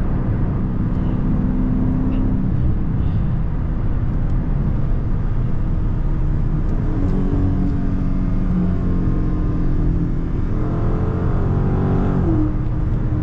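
392 HEMI V8 of a Dodge Charger Scat Pack Last Call with a mid-muffler delete, heard from inside the cabin while cruising at highway speed: a steady engine drone over road noise. Near the end the engine note climbs briefly, then drops back.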